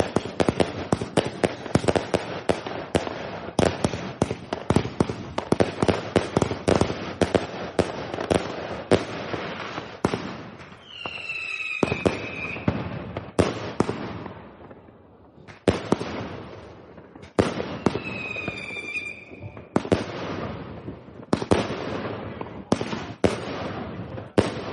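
Nordlicht 'Die Hand Gottes' 239-shot firework compound firing a fast run of sharp bangs for about ten seconds. This is followed by slower single shots, with a whistling tone about eleven seconds in and again near eighteen seconds.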